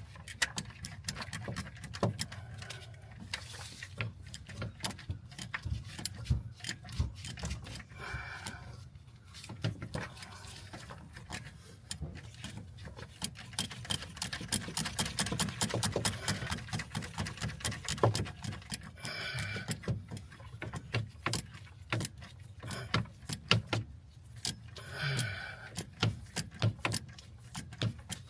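Hand tools working on metal in an engine bay: many irregular sharp clicks and clinks, thickest around the middle, over a steady low hum.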